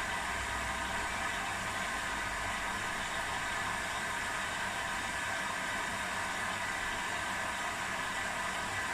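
Domestic washing machines running a quick wash cycle, a steady whirring hum with a low drone and an even hiss.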